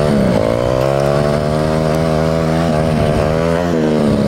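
Small mini bike engine running at steady, fairly high revs, its pitch wavering slightly.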